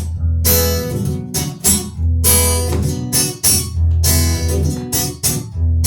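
Acoustic guitar strummed in a steady rhythm over sustained low bass notes, an instrumental passage of a song with no singing.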